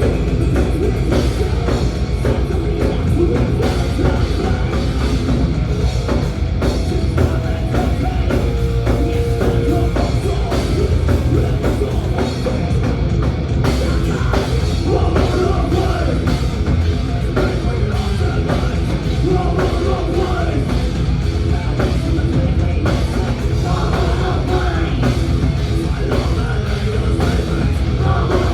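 Thrash metal band playing live at full volume: drum kit driving under a wall of amplified instruments, with no breaks.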